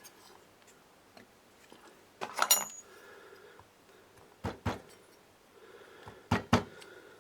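A metal tool clinks with a brief ringing, then short knocks come in pairs, twice, as a crankshaft oil seal is tapped into its seat in a two-stroke brush cutter's crankcase.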